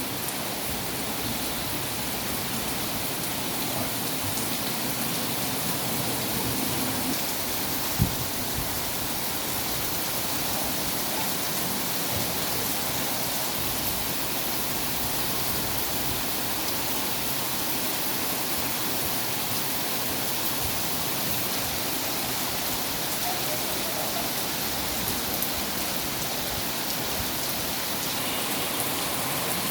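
Steady rain falling, an even hiss of drops on the ground. A single sharp knock cuts through about eight seconds in.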